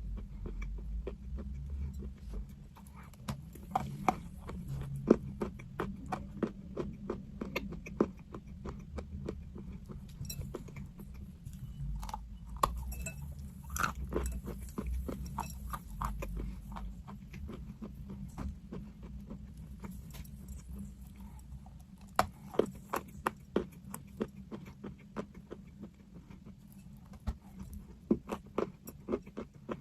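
Someone biting and chewing crunchy chalk close to the microphone: a steady run of sharp crunches and crackles, with louder clusters now and then.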